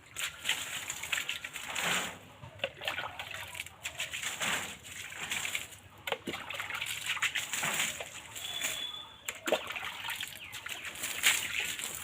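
Water splashing and sloshing in a run of irregular splashes, a second or two apart, as when water is poured or thrown onto plants by hand.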